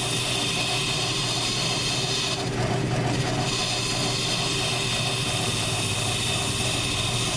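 South Bend metal lathe running while a cutting pass is taken along a scooter wheel: a steady running hum with a faint pulse about three times a second, and a high hiss from the cut that breaks off for about a second partway through, then resumes.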